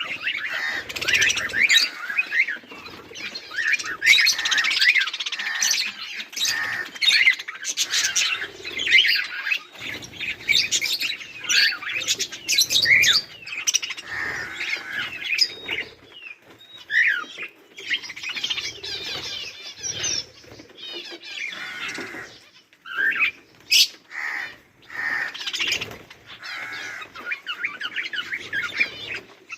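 A flock of budgerigars chattering and chirping, many birds at once with overlapping warbles and squawks. The calls come in busy stretches broken by brief lulls.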